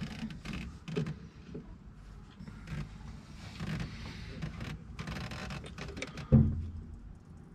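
Irregular clicks and knocks of hand work on a tractor's metal gear lever parts, with one heavy thump about six and a half seconds in.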